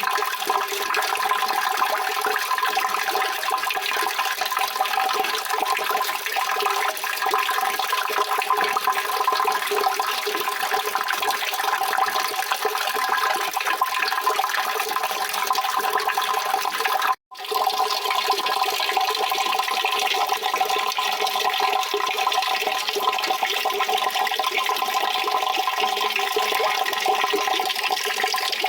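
Steady rushing, gushing water. It cuts out for a split second about 17 seconds in, then resumes.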